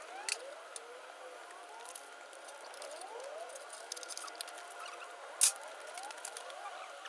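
Hand tools clicking against front-suspension parts, with one sharp metal clink about five and a half seconds in, over a constant background of short squeaky chirps.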